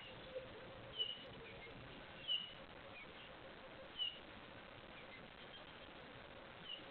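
Wild birds chirping: about six short, high chirps spaced a second or so apart, over a faint steady hum.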